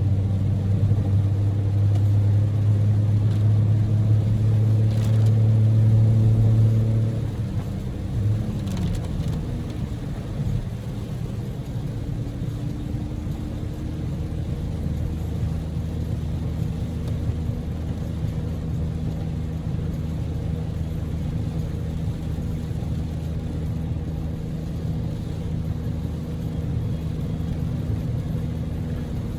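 Daihatsu Move's EF-VE 660 cc three-cylinder engine heard from inside the cabin, with a loud steady drone under load. About seven seconds in, the drone drops in pitch and gets quieter, then runs on steadily over road noise.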